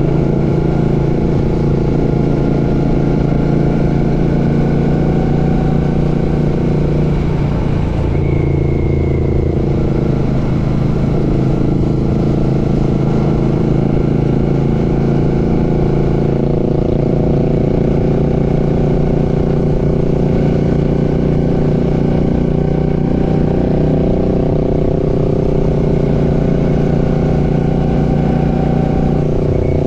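Royal Enfield Classic 650's 648 cc parallel-twin engine running under way on the road. It holds a steady pitch, changes pitch about eight to ten seconds in, and climbs slowly toward the end.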